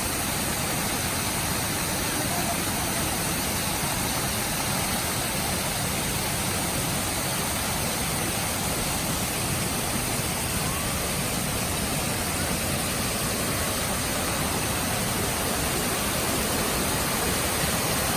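Steady rush of a waterfall, a wide curtain of many thin streams pouring over a rock face, with no change in level.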